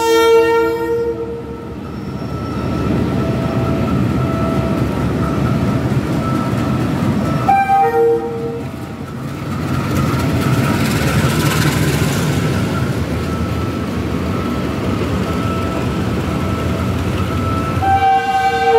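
Philippine National Railways diesel locomotive passing close at a level crossing, hauling passenger coaches: its horn sounds at the start, gives a short blast about eight seconds in and sounds again near the end, with engine rumble and wheel clatter over the rails between.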